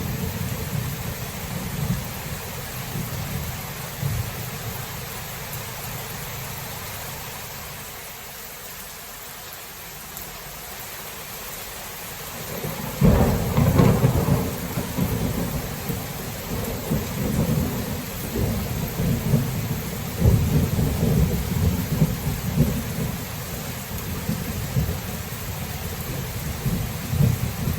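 Thunderstorm: steady rain hissing throughout, with low thunder rumbling that fades away over the first ten seconds. About halfway through, a sudden sharp thunderclap breaks in and rolls on in repeated rumbles.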